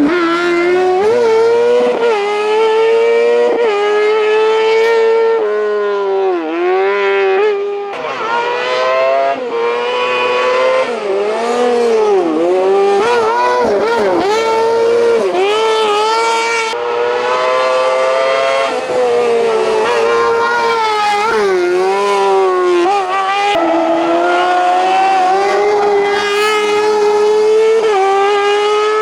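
A race car's engine running at high revs for the whole stretch, its pitch dropping briefly several times as the throttle is lifted and gears are changed, then climbing again.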